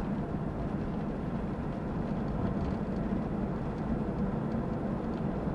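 Camper van driving, heard from inside the cab: a steady drone of engine and road noise.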